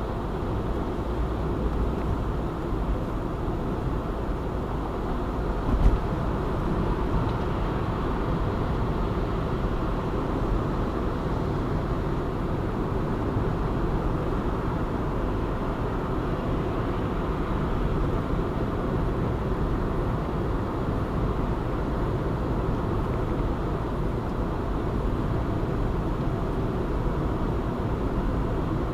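Steady road and engine noise of a car driving at an even pace, with a brief knock about six seconds in.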